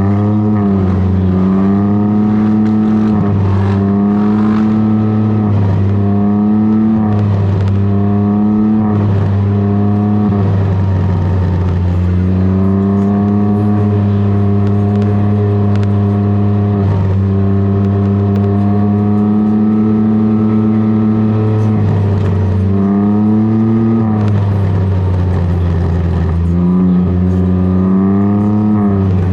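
Can-Am Ryker engine running through an aftermarket BKD Insomnia series exhaust while riding. The pitch repeatedly climbs and falls as the throttle is opened and eased off, several times over the stretch.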